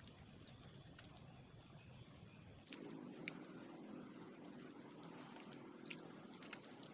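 Faint, steady high-pitched drone of forest insects, which jumps to a higher pitch about three seconds in, with a few faint clicks.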